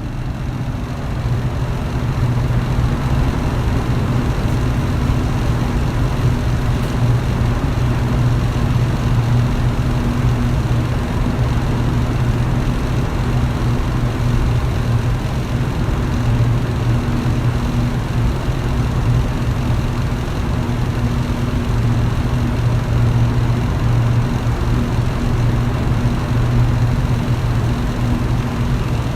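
Electric fan running steadily: a low motor hum under an even rush of moving air, fading in at the start.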